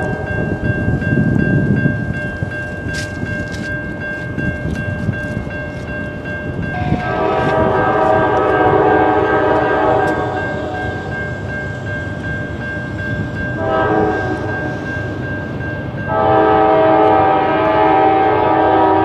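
Locomotive air horn sounding the grade-crossing signal: a long blast, a short one, then another long one starting near the end, over a steady ringing from the crossing signal bell and the low rumble of the passing train.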